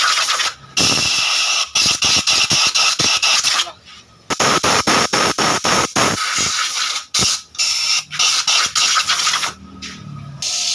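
Compressed-air blow gun hissing loudly in rapid on-off spurts, with short pauses about four seconds in and near the end.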